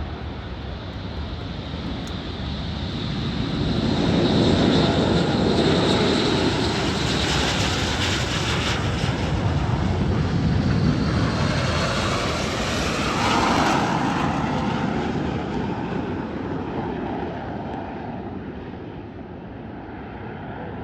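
Display aircraft passing overhead, its engine noise building over a few seconds, staying loud for several seconds, then fading away.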